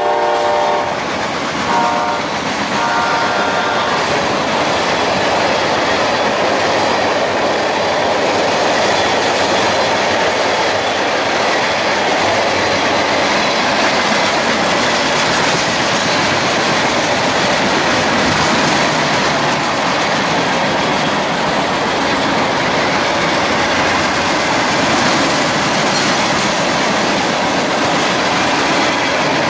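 A train horn ends its grade-crossing pattern in the first four seconds: a long blast fading out, a short one, then a last longer one. The train then passes at speed with a steady rolling rush of wheels on rail and clickety-clack over the joints.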